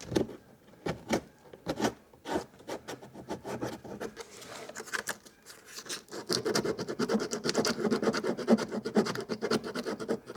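Hand sanding of a cut edge with a small piece of sandpaper, smoothing it to a clean finish. Separate scraping strokes at first, then faster, steadier rubbing from about six seconds in.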